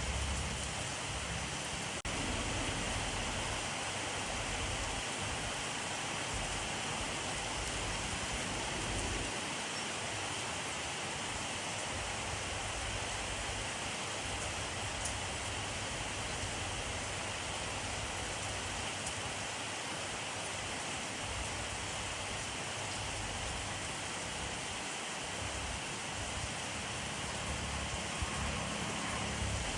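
Steady rainfall: an even hiss of rain on surfaces, with a low rumble underneath near the start and again near the end.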